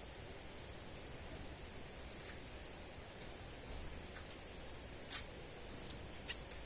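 Small birds giving short high-pitched chirps, scattered and irregular, with the sharpest ones about five and six seconds in, over a steady low background noise.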